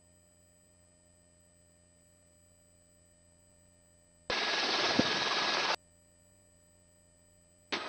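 Near silence, broken about four seconds in by a burst of hissing noise about a second and a half long that switches on and off abruptly: the helicopter's headset intercom opening briefly on the cabin noise. Right at the end it cuts in again.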